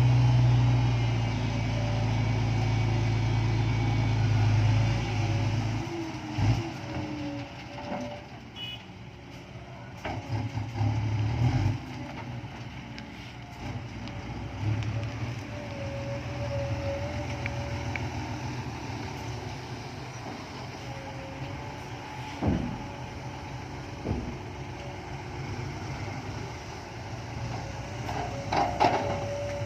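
Isuzu 360 truck's diesel engine running at idle, strongest in the first few seconds, with a few sharp knocks and clunks later on.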